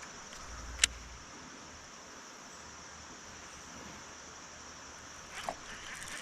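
Steady high-pitched drone of insects, with one sharp click about a second in.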